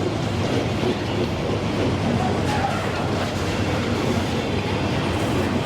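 Freight train passing, its wagons rolling steadily along the track.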